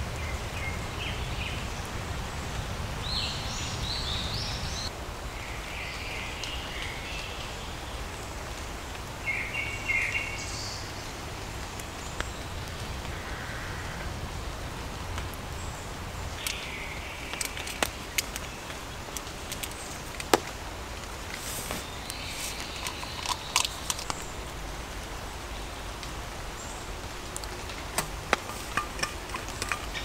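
Wild birds give short chirping calls now and then over a steady outdoor hiss. From about halfway on there are scattered sharp ticks.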